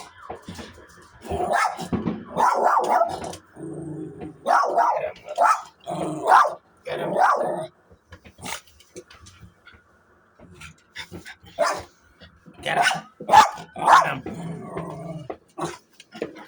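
A dog barking excitedly in several bursts of rapid barks with short pauses between them, with some growling mixed in.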